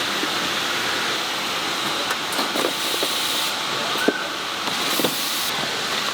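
Steady hiss of factory-floor machinery and air, with scattered light clicks and knocks from parts and tools being handled during angle grinder assembly.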